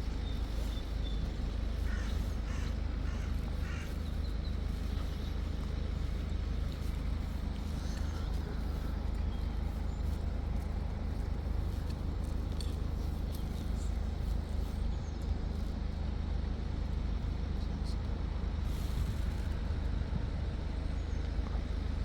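Steady low outdoor rumble, with a bird cawing about four times, two to three and a half seconds in.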